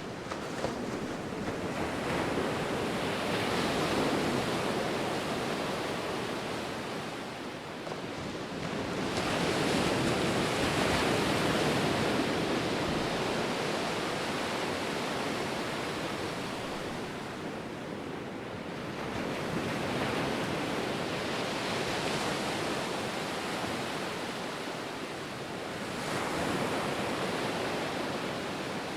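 Ocean surf: waves breaking and washing up the shore, the rushing noise swelling and easing back about every seven to nine seconds.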